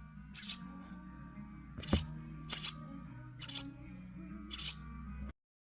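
A small bird chirping in short high bursts, five in all about a second apart, over soft low background music; the sound cuts off suddenly near the end.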